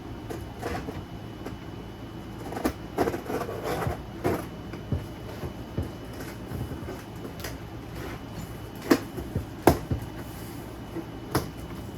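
Cardboard box being opened with scissors: scattered clicks, knocks and scraping from the blades cutting the tape and the box flaps being handled, with a short scratchy stretch about three seconds in and a few sharp knocks near the end.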